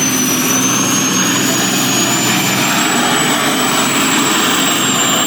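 1985 Peterbilt 359 semi tractor's diesel engine running hard under full load while pulling the sled, with a steady high turbo whistle that rises a little in pitch.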